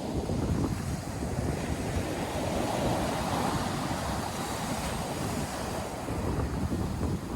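North Sea surf breaking and washing ashore, with wind buffeting the microphone in low rumbles. A wave's wash swells louder around the middle.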